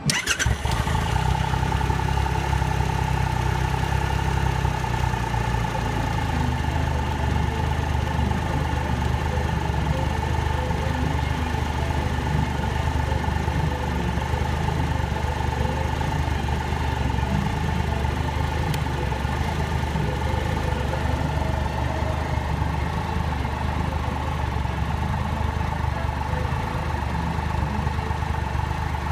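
2017 Triumph Trophy SE's 1215 cc inline-three engine catching on the starter and then idling steadily. Its low idle note settles lower about five seconds in.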